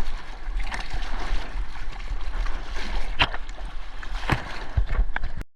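Seawater sloshing and splashing around a GoPro as a surfer moves through the water, with a few sharp splashes and a low rumble of water and wind on the microphone.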